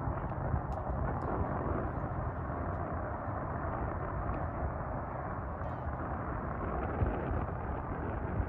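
Steady roar of the Airbus A330's jet engines, with gusty wind rumbling on the microphone.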